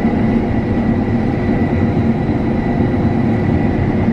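Combine harvester running steadily while cutting wheat, heard from inside the cab: a continuous low drone with a thin, steady high whine over it.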